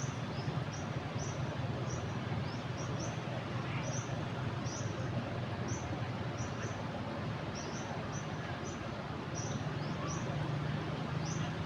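Steady rush of a flooded river pouring over a weir, with a small bird giving short, high chirps again and again, about one or two a second.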